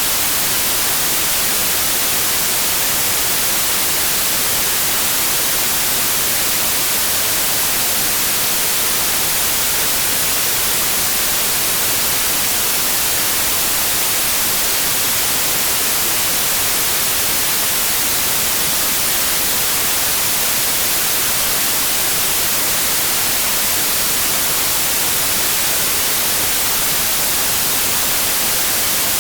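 Steady white noise: an even, unchanging hiss with no tone or rhythm in it, strongest in the treble, played as a sleep aid for babies.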